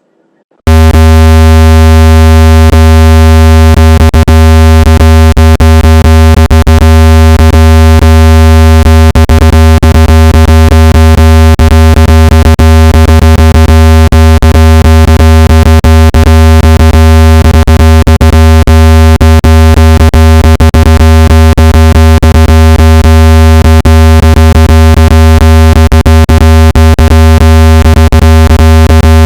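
Loud synthetic speaker-cleaning tone meant to vibrate water and dust out of a phone speaker. It is a steady low buzz with many overtones that starts abruptly about half a second in, with irregular crackles running through it.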